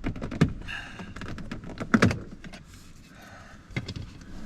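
A run of light clicks and clatters with two louder knocks, about half a second and two seconds in, from hand work at the car door.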